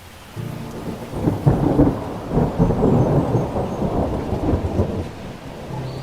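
A rolling peal of thunder with rain, starting under half a second in, loudest in the middle and easing off toward the end.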